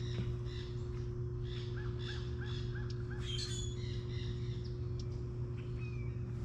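Birds calling outdoors, with a quick run of short repeated calls in the first half, over a steady low hum.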